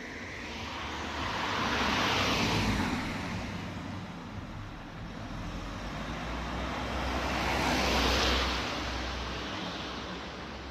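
Two cars passing one after the other, each a swell of tyre and engine noise that builds and fades: the first peaks about two seconds in, the second about eight seconds in. Under them runs a steady low traffic rumble.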